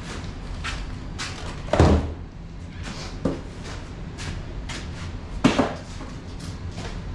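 Footsteps, about two a second, with two heavier thumps, one about two seconds in and another about five and a half seconds in, and a lighter knock between them.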